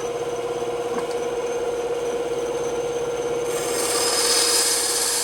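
Bandsaw running with a steady hum; about three and a half seconds in, a louder high hiss comes in as the blade cuts through wood.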